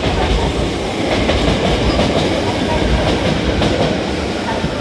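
Hankyu 5300 series electric train running past the platform as it pulls out, a steady rumble with wheels clattering over the rail joints.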